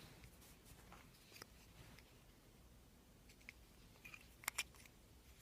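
Near silence with a few light clicks and taps from handling hard plastic coin capsules. The sharpest are a quick pair about four and a half seconds in.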